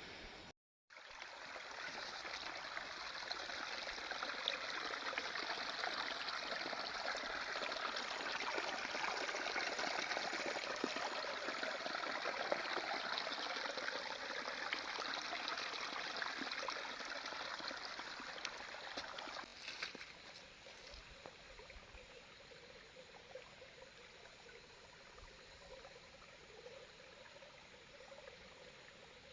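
Running water flowing and trickling steadily, a small stream or spring outflow. About two-thirds of the way through it drops to a fainter, duller rush.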